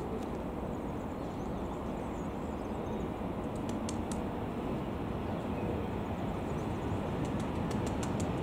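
Low, steady rumble of a train, growing slowly louder, with a few sharp high ticks a few seconds in and more near the end.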